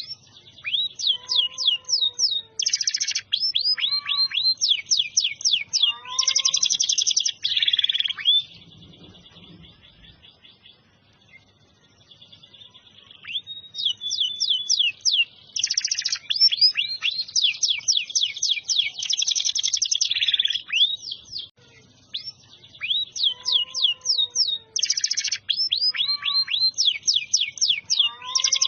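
Domestic canary singing in long loud phrases of rapid down-sweeping notes and fast trills. It falls quiet for about five seconds some eight seconds in, then takes up its song again.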